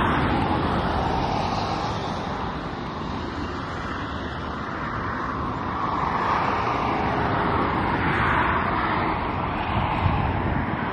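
Road traffic going by: a steady rush of tyre noise that swells and fades as vehicles pass.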